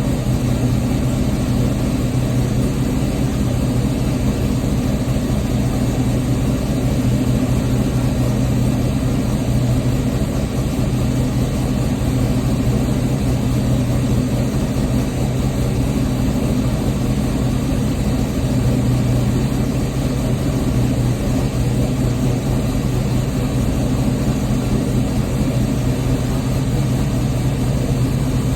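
LS-swapped 6.0-litre V8 in a G-body Oldsmobile Cutlass idling steadily while it warms up after a cold start.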